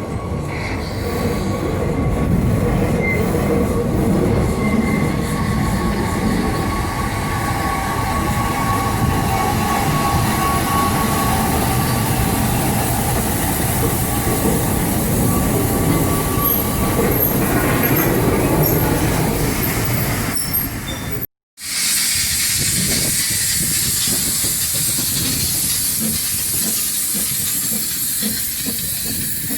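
Narrow-gauge steam train running, a steady rumble of wheels on rail with a thin, drawn-out wheel squeal. After an abrupt cut about two-thirds of the way in, a steady loud hiss over the rumble.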